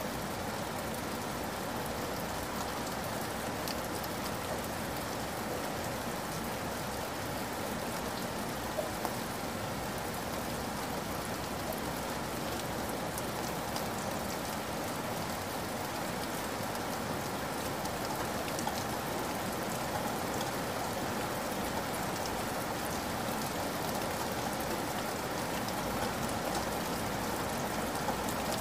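Heavy rain pouring steadily onto a wet, puddled surface: a dense, even hiss of falling water with scattered drop splashes, growing slightly louder near the end.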